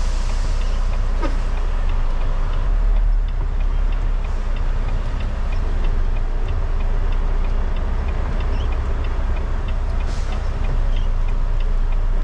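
Semi-truck diesel engine idling steadily, heard from inside the cab as a low even rumble, with faint regular ticking over it.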